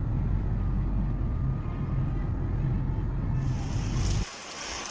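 A loud, steady low rumble. About three and a half seconds in, the hiss of falling rain comes in, and the rumble cuts off just before the end.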